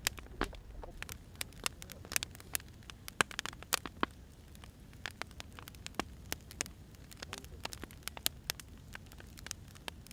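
Burning firewood crackling, with irregular sharp pops, several a second, over a low steady rumble.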